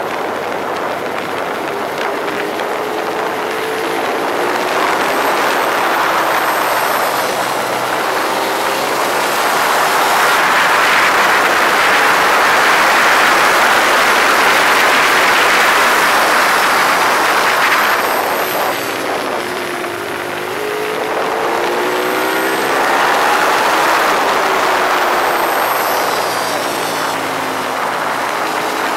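Ducati 848's L-twin engine running hard on a race track, its note rising and falling repeatedly, under a loud rushing hiss that swells through the middle, eases briefly about two-thirds of the way in, then builds again.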